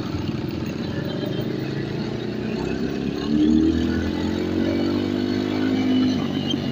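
Motorstar Z250R cafe racer's engine running as the bike rides along, its pitch rising steadily for a few seconds about halfway through as it accelerates.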